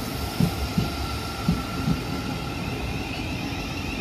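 South Western Railway class 707 electric multiple unit pulling in alongside the platform: a steady running rumble with a high steady whine, and its wheels clacking in pairs over a rail joint, two pairs about a second apart.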